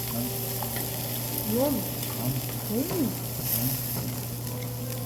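Beef sizzling on a grill, a steady frying hiss with a low hum beneath it. Two short voice sounds rise and fall about a second and a half and three seconds in.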